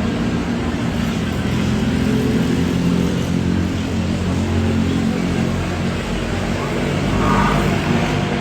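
Steady, loud engine drone of airport background noise heard from an observation deck: a continuous low hum that swells slightly about seven seconds in.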